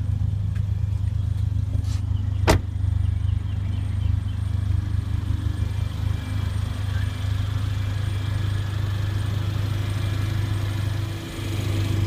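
Steady low hum of the Mercedes-AMG GLA 45's turbocharged 2.0-litre inline-four engine idling, with one sharp click about two and a half seconds in.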